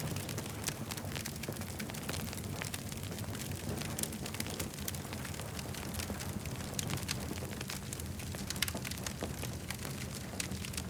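Campfire burning, with frequent sharp crackles and pops of the burning wood over a steady low rumble.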